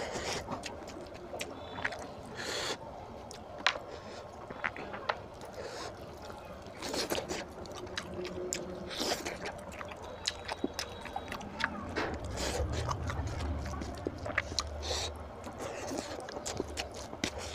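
Close-up eating sounds: a man chewing rice and mutton curry with wet smacking and mouth clicks, and the squelch of fingers mixing and picking up the food.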